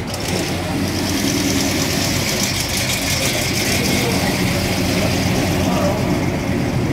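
Car engine idling, a steady low rumble, getting a little louder about a second in.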